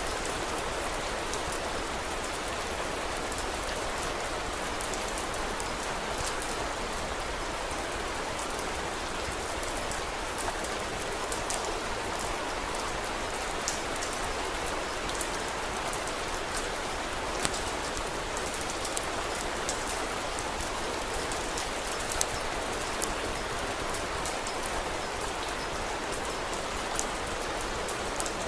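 Steady rainfall, with scattered sharp crackles and pops from a wood fire, a few of them standing out above the rain.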